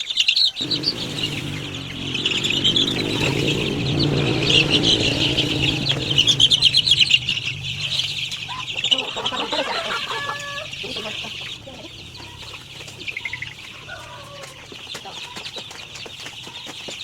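Chickens clucking and a dense chorus of high chick peeping, with wings flapping. A low steady rumble sets in under a second in and stops about two-thirds of the way through.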